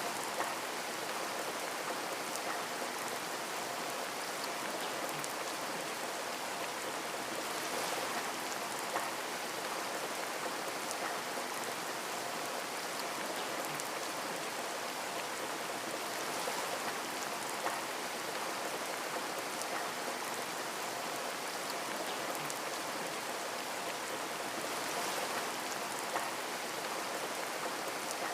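Steady rain falling on a window, an even hiss with scattered individual drops ticking against the glass.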